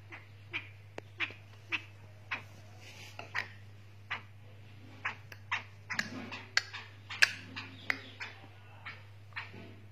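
Black francolin making a steady run of short sharp sounds, about two a second, busier and louder near the middle, over a steady low hum.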